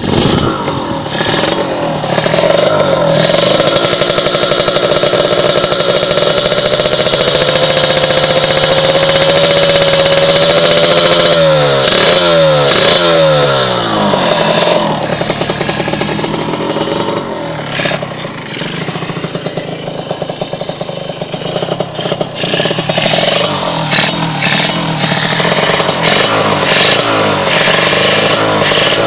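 Kawasaki Ninja R two-stroke motorcycle engine running through an aftermarket Creampie exhaust while being warmed up. The revs are held high and creep up slowly, then fall away steeply about halfway through. After that it settles lower with uneven idling and repeated throttle blips.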